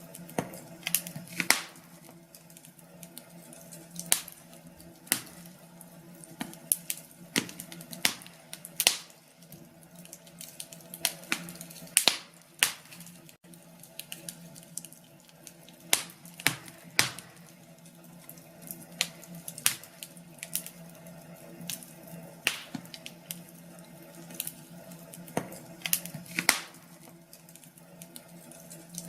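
Wood fire crackling in a fireplace: irregular sharp pops and snaps, one or two a second and some louder than others, over a faint steady low hum.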